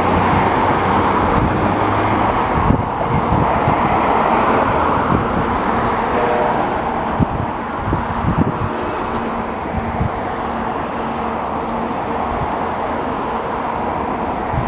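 NJ Transit push-pull commuter train pulling away, its running noise steady at first and fading after about five seconds as it recedes, with irregular low thumps of wind on the microphone.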